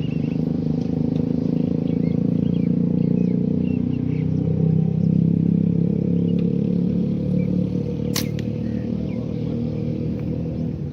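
A motor vehicle's engine running steadily, its pitch drifting a little, with faint bird chirps over it and one sharp click about eight seconds in.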